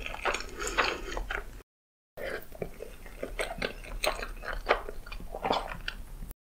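Close-miked wet chewing and lip smacking of creamy spaghetti, with noodles slurped in near the start. The sound cuts out completely for about half a second a little under two seconds in.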